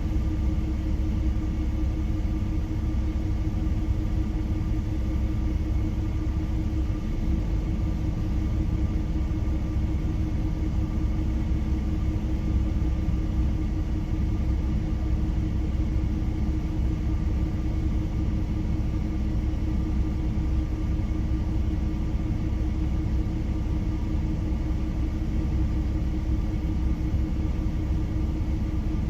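Long freight train rolling past, a steady low rumble with a few faint steady tones over it.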